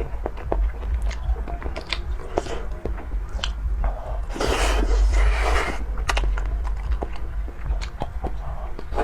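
Close-miked chewing and biting of malatang, with many small wet clicks and crunches. A longer hissing stretch comes about four and a half seconds in and lasts about a second and a half, all over a low steady hum.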